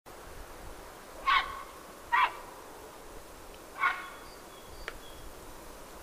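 A bird giving three short loud calls: two about a second apart, then a third after a longer pause. A few faint, thin, high notes follow near the end.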